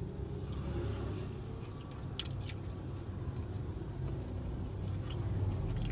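A person chewing fried chicken, with a few soft mouth clicks, over the low steady rumble of a car cabin.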